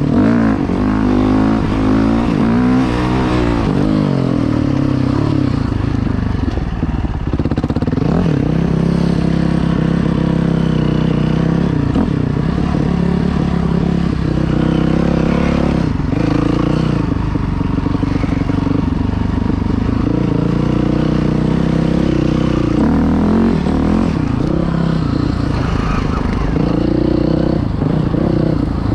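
Dirt bike engine being ridden hard, its pitch rising and falling again and again as the rider works the throttle and shifts, with brief drops in revs every few seconds.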